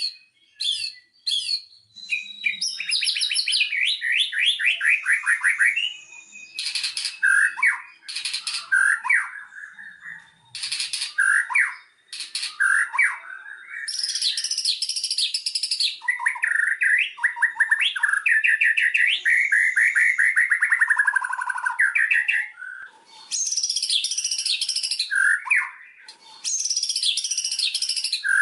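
White-rumped shama singing a long, varied song, the kind used as a lure track to set captive shamas singing. It runs through fast trills, rapid runs of repeated notes and sliding whistled notes in quick succession, with short breaks between phrases.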